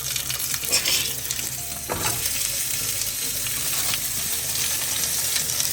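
Plant-based burger patties sizzling steadily in a frying pan.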